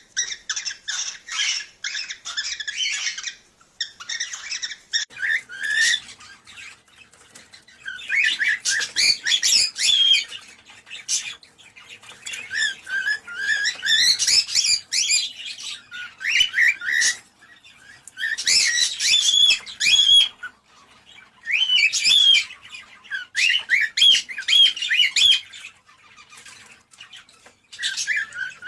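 Cockatiels chattering and warbling in high-pitched bouts of a few seconds each, broken by short pauses.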